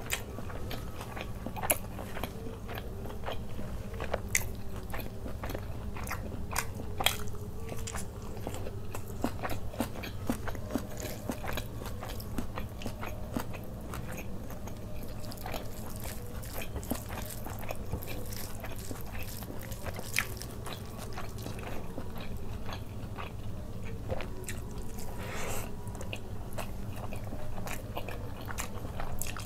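Close-miked eating: a person chewing chicken and rice, with many sharp wet mouth clicks and smacks over a low steady hum.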